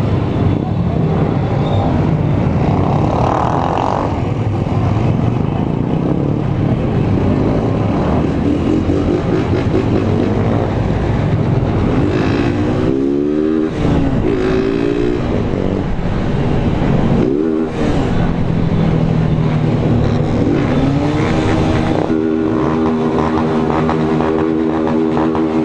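Small single-cylinder Honda 160 motorcycles riding in a group, engines running under throttle with pitch rising and falling as they rev and shift about halfway through, then holding a steady pitch near the end.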